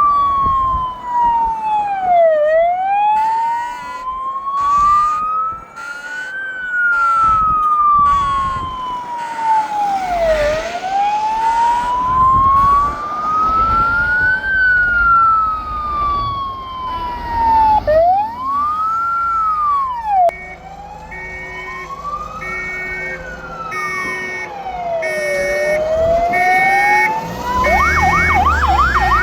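Several fire engine sirens sounding together as the trucks pass. A slow wail rises and falls about every eight seconds, with other sirens overlapping it. A two-tone hi-lo siren comes in about two-thirds of the way through, and a fast yelp starts near the end.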